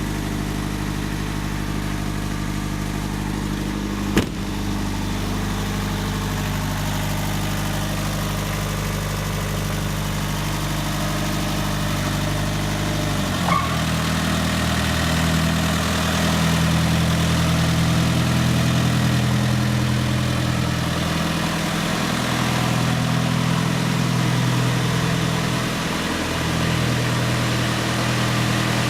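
Isuzu 4BD2TC four-cylinder turbodiesel of a GMC truck idling steadily, with a single sharp click about four seconds in. About halfway through the engine note changes and it runs faster, its pitch wavering a little.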